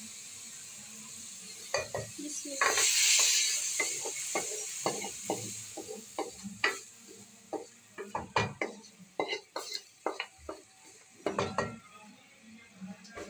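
Fried saag scraped from a metal karahi into a pot of chicken in hot oil: a loud sizzle about three seconds in as it lands, then a spoon knocking and scraping against the metal pans as it is stirred in.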